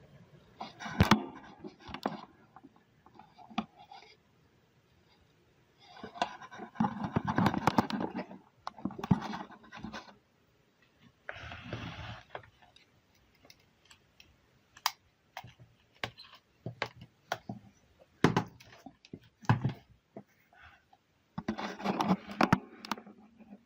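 Handling noise: irregular scraping and rubbing with sharp clicks, in several bursts.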